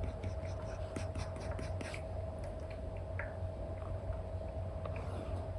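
Apple Pencil tip tapping and making short scratchy strokes on an iPad's paper-like screen film, with a cluster of quick taps about one to two seconds in. A steady low hum runs underneath.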